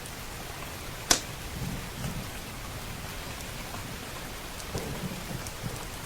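Steady heavy rain with low rolls of thunder rumbling twice. About a second in there is a single loud, sharp crack, and faint crackles from a wood fire tick here and there.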